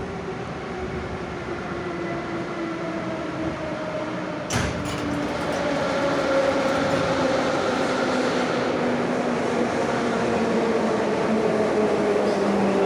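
Moscow Metro 81-717 "Nomernoy" subway train running, heard from inside the car, with tones that slide slowly lower. A single sharp clank comes about four and a half seconds in, after which the running noise grows louder.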